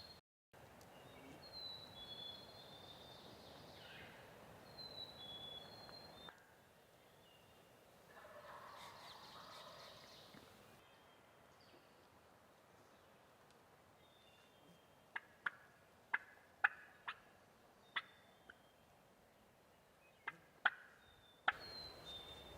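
Wild turkey gobbling in the distance over light woodland ambience, with small songbirds calling. Near the end comes a quick series of about ten sharp clucks.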